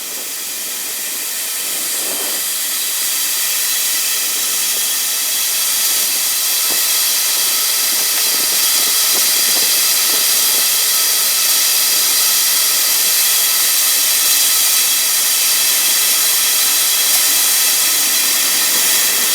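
Shelled corn pouring steadily off a hydraulic live-bottom trailer's belt into a grain pit: a steady rushing hiss that swells over the first few seconds, then holds level.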